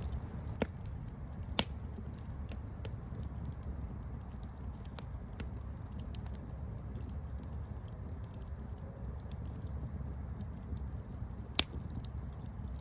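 Campfire burning: a steady low rumble of flames with scattered sharp crackles and pops of burning wood, two louder pops about a second and a half in and near the end.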